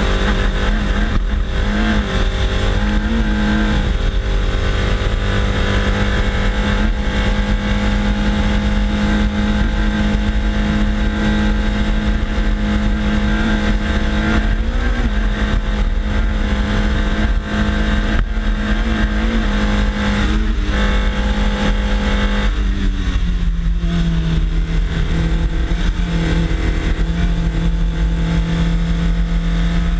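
Hill-climb car's engine running hard at high, fairly steady revs, pitch wavering briefly a few times, then dropping to a lower steady pitch about 23 seconds in. Heavy wind and road rumble on the bumper-mounted camera.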